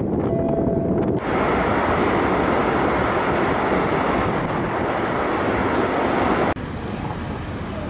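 Steady noise of wind buffeting the microphone over the running engine of a passenger boat on the river. The sound changes abruptly about a second in, and near the end it suddenly becomes quieter.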